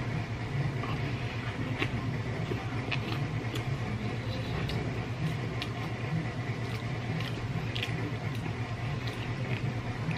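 Chewing and wet mouth sounds of a person eating a peeled boiled egg: soft clicks about once a second over a steady low hum.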